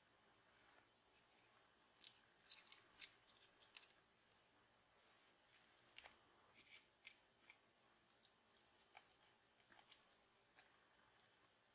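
Faint, irregular clicks and snips of hand work on small model parts, coming in two busier flurries and then sparser ticks.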